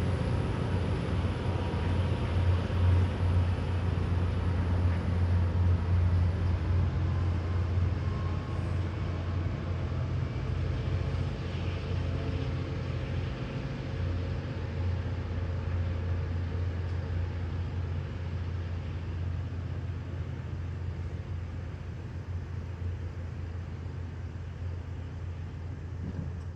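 MBTA diesel commuter train pulling away: a steady low engine rumble with rail noise that slowly fades as the train recedes.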